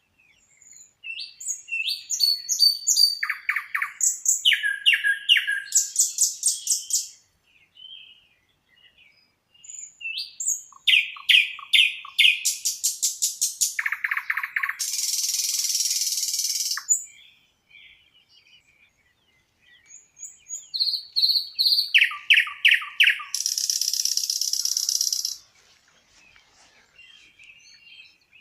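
A songbird singing three long song bouts a few seconds apart. Each bout is a run of quick repeated high notes in changing phrases and ends in a drawn-out buzzy hiss.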